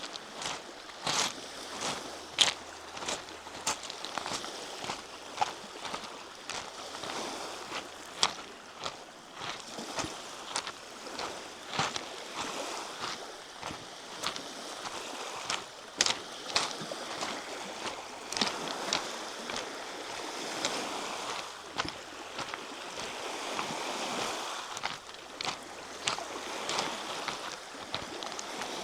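Footsteps at a steady walking pace on a trail, crunching sharply at every step, over a steady rushing wash of Lake Michigan waves.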